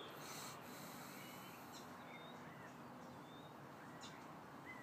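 Birds chirping faintly: short, high chirps several times over steady outdoor background noise.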